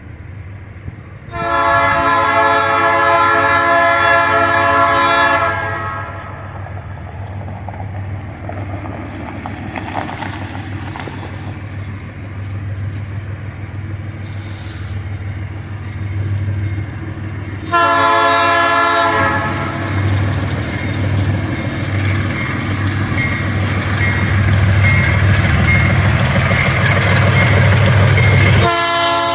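Diesel locomotive's air horn sounding a long chord of several notes about a second in, a short blast a little past halfway, and another starting at the very end. Between the blasts the locomotive's diesel engine rumbles and grows louder as it draws nearer.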